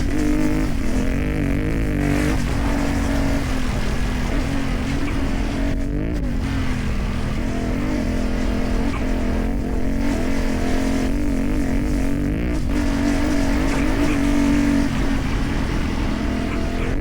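CFMoto 450MT's parallel-twin engine through a modified exhaust, under way on a ride, its pitch rising and falling with the throttle and a few brief drops in sound along the way.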